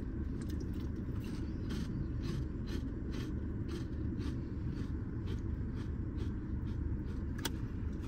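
Crunchy jalapeño cheddar protein puffs being chewed: an irregular run of short, crisp crunches, a few each second, over a steady low rumble.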